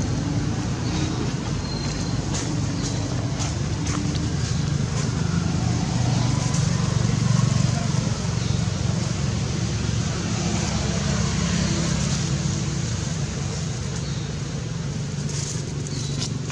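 Steady low rumble of outdoor background noise, like distant traffic, with a few faint clicks.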